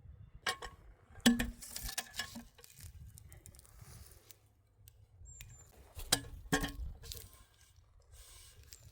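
Scattered clinks and knocks of hard objects being handled, with some brief metallic ringing. The loudest knock comes just over a second in, and there are two more close together about six seconds in.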